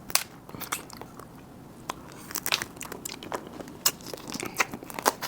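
Cooked crab leg shells cracking and crunching as they are bitten open, a string of sharp irregular cracks with a busy cluster in the middle, along with chewing.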